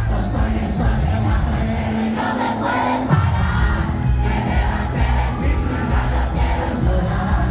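A live cuarteto band playing with a steady, driving beat, the crowd singing along. About three seconds in, a held bass note gives way to a strong accent.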